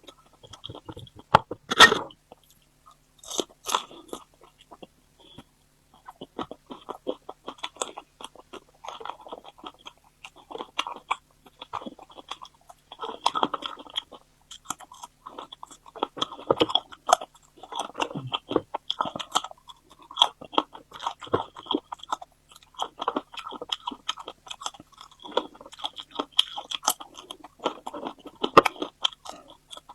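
Close-miked eating: crunchy bites and chewing, with dense, irregular crackles and a sharp, loud bite about two seconds in.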